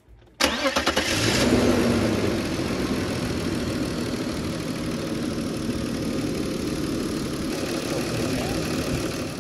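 BMW E39's inline-six engine cranking and catching about half a second in, briefly running faster, then settling into a steady idle.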